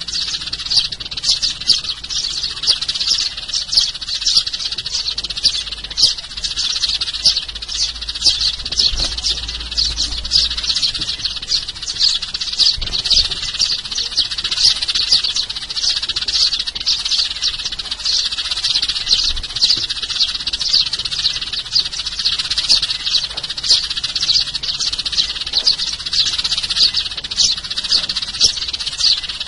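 Sparrows chirping continuously, a dense run of short, high chirps from several birds at once with no break.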